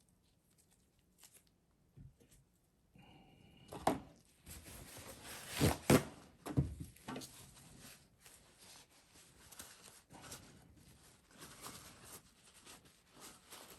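Bench handling noises while a starter is being taken apart and cleaned: rustling and scraping, with a few sharp knocks about four and six seconds in.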